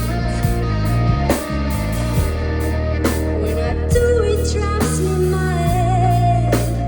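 A band playing rock music live, with a singer's wavering, held notes over drums, bass and guitar.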